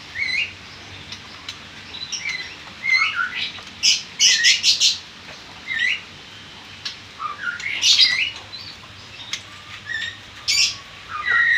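Caged birds chirping: a run of short rising calls, with louder clusters of chirps about four seconds in, around eight seconds and again near the end.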